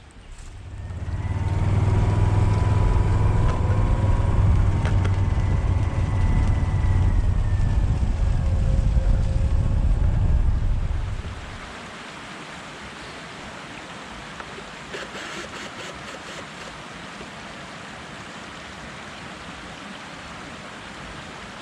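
A vehicle engine running, its pitch wavering, under heavy wind rumble on the microphone; it cuts off about eleven seconds in. A steady hiss follows, with a short run of clicks a few seconds later.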